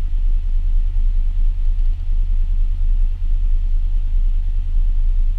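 The Chevrolet Suburban's engine idling steadily, a low, even rumble heard from inside the cab.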